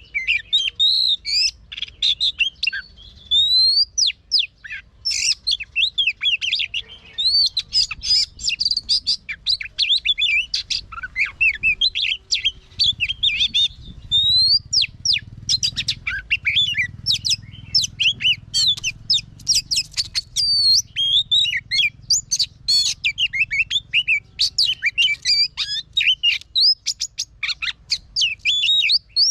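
Oriental magpie-robin singing a long, varied song of rapid whistles, chirps and trills, with a few short pauses between phrases.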